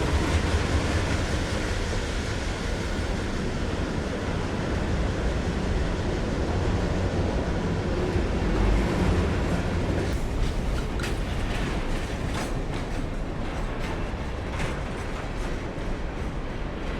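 A freight train rolling by: a steady low rumble, with wheels clicking over rail joints from about ten seconds in.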